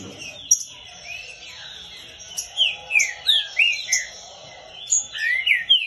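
Green-winged saltator (trinca-ferro) singing: loud whistled notes that slide up and down in pitch, coming in quick runs mostly in the second half, with higher repeated chirps going on behind them.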